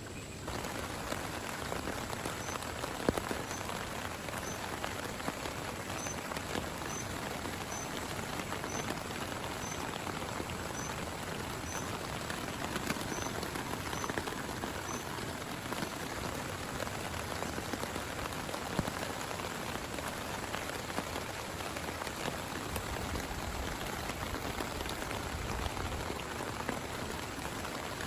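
Steady heavy rain, a dense patter of many individual drop hits. Through the first half a faint, short, high chirp repeats about once every second or less.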